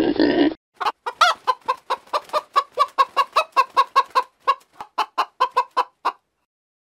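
A chicken clucking, a long run of short clucks at about four a second that stops near the end. In the first half second a deeper, lower animal sound cuts off.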